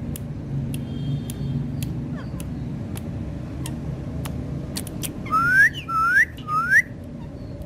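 A parrot whistling three times in quick succession, each whistle sweeping up in pitch and curling over at the top. Faint scattered ticks and a low steady hum sit underneath.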